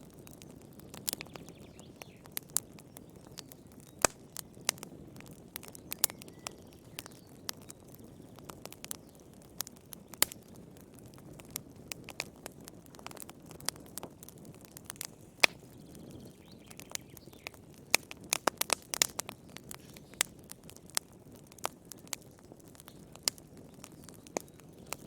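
Wood fire burning in a fireplace: irregular sharp crackles and pops over a low, steady rustle of flames, with a quick flurry of pops about three-quarters of the way through.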